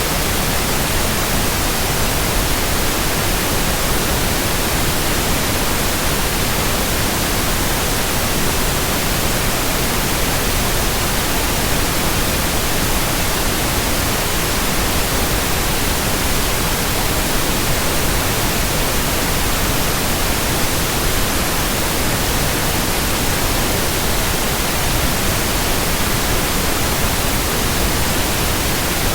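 Steady white-noise hiss, even and unchanging, with no tones, rhythm or separate events.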